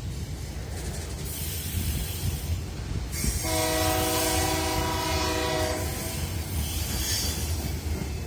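Train horn sounding one steady blast of about two and a half seconds, a little under halfway in, over the continuous low rumble of the moving train.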